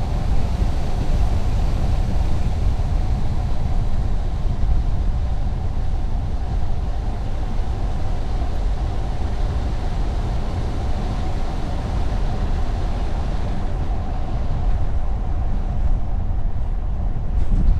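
A car driving at steady speed: a continuous low rumble of road, tyre and engine noise.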